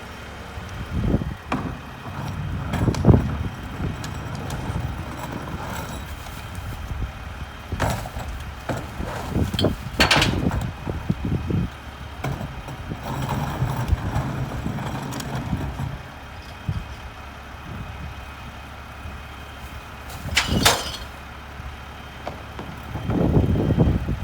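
Mack LR garbage truck's diesel engine running steadily, with several sharp bangs and clattering bursts scattered through.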